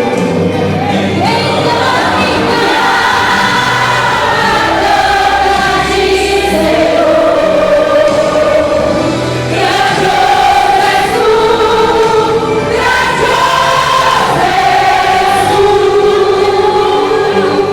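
Gospel choir singing a hymn in long held notes over instrumental accompaniment.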